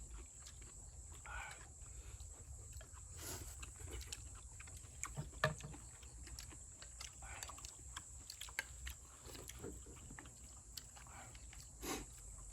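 Quiet eating sounds: people chewing and slurping stew and ramen noodles, with scattered small clicks.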